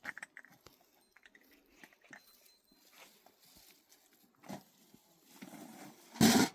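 Scattered small clicks and rustles, then one short, loud animal call near the end.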